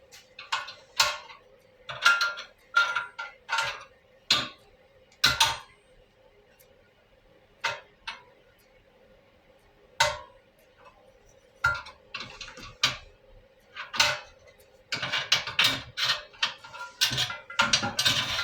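Pieces of metal and tools clinking and clanking as they are handled, in irregular knocks that come thick and fast near the end, over a faint steady hum.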